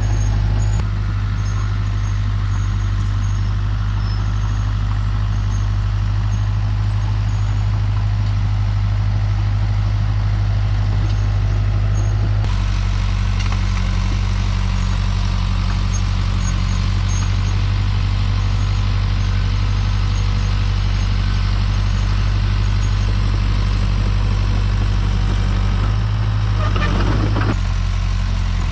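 Heavy diesel dump truck engine running at a steady speed. Its note steps slightly about a second in and again about twelve seconds in, and a short rush of noise sweeps through near the end.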